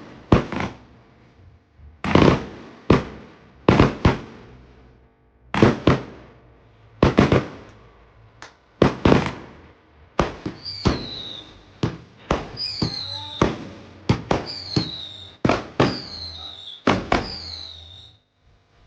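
Fireworks going off: a series of sharp bangs, each with a short echoing tail, about one a second. In the second half several short whistles, each falling slightly in pitch, are mixed in among the bangs.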